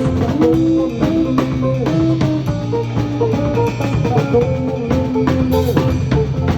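Live band playing an instrumental passage: guitar, bass and drum kit keeping a steady beat, with no vocals.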